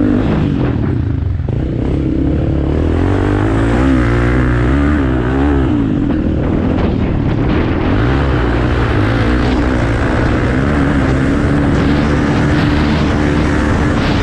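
Off-road racing motorcycle engines running hard, loud throughout, their pitch rising and falling as the riders work the throttle.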